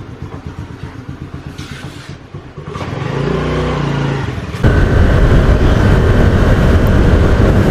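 Motorcycle engine running with an even low pulse, then revving up as it pulls away. About halfway through, loud wind rush on the microphone joins the engine as the bike rides along.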